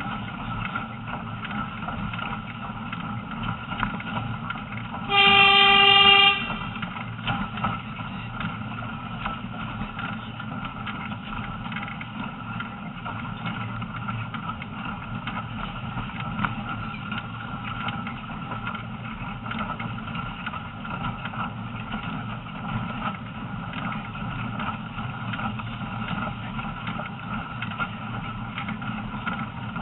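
Train running steadily on the track, a continuous rumble with a faint steady hum. About five seconds in, the locomotive sounds one whistle blast lasting about a second, the loudest sound here.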